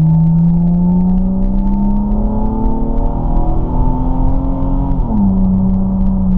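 2010 Chevrolet Camaro's 3.6-litre V6 with its stock exhaust, heard from inside the cabin with the windows up, accelerating hard: the engine note climbs steadily, then drops sharply about five seconds in as the automatic transmission upshifts, and drops again near the end. It is not real loud and doesn't get real raspy.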